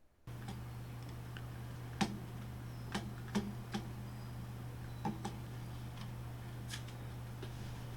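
About seven irregular sharp clicks from someone working a computer, over a steady low electrical hum picked up by the microphone.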